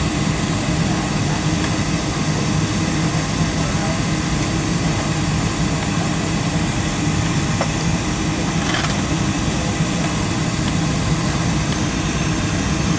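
Steady drone inside the cabin of a Boeing 737-300 waiting at the gate before pushback: the even hum and rush of the airliner's air supply and machinery, with no distinct events.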